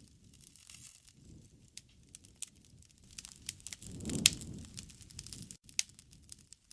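Wood bonfire crackling, with scattered sharp pops. About four seconds in, a low rushing swell builds and the loudest pop cracks out of it.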